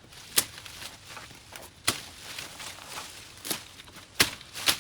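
A series of sharp strikes at irregular spacing, about five in under five seconds, the loudest two close together near the end, over faint rustling.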